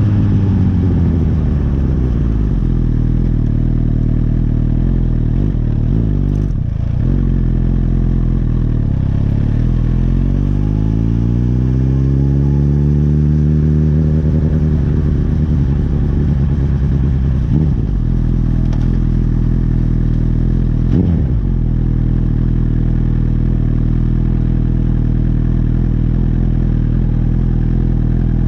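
Honda CB1000R's inline-four engine: its pitch falls at the start, climbs and drops again through the middle, then runs at a steady pitch for the last several seconds, with a few short clicks along the way.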